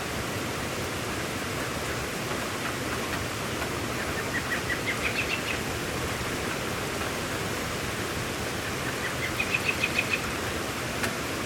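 Steady rain falling, with a bird calling twice through it: each time a quick series of short notes that climb in pitch.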